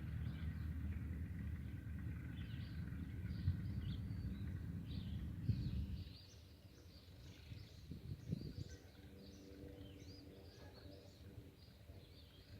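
Small birds chirping repeatedly over a low rumble, which drops away about halfway through.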